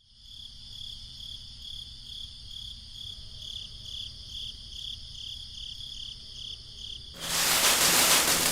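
Crickets chirping in a steady, evenly pulsing rhythm. About seven seconds in, a loud rushing hiss takes over and ends in a quick rising whistle.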